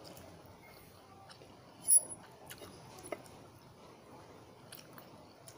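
Close-up chewing of a mouthful of instant pancit canton noodles, with small scattered mouth clicks and one sharp, short click about two seconds in.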